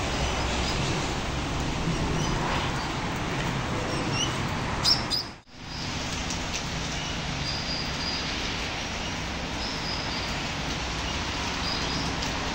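Steady outdoor background noise with short, high bird chirps several times, mostly in the second half. The sound drops out briefly about five seconds in.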